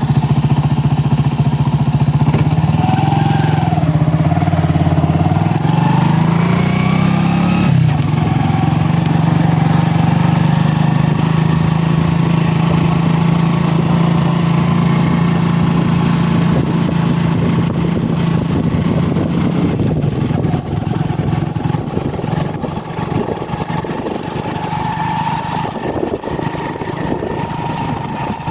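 Vehicle engine running as it travels along a road. Its pitch climbs over the first several seconds, drops sharply about eight seconds in, like a gear change, then holds steady at cruising speed.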